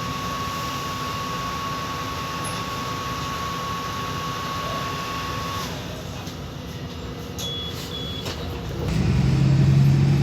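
City bus engine running with a holed exhaust, heard from inside the cabin. A steady whine stops about five and a half seconds in, and two short high beeps sound around the eighth second. Then, near the end, the engine grows sharply louder with a deep drone as the leaking exhaust blows.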